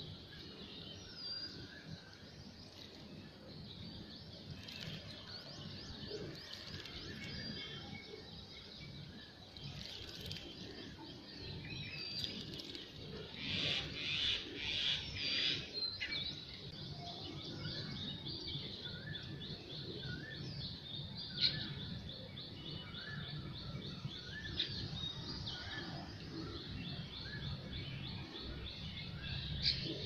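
Small birds chirping, many short high calls and trills, busiest and loudest about halfway through, over a steady low background rumble.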